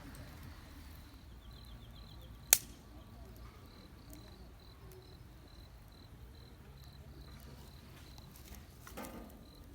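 Insects chirping steadily at about three short high chirps a second, with one sharp, loud snap about two and a half seconds in and a softer knock near the end.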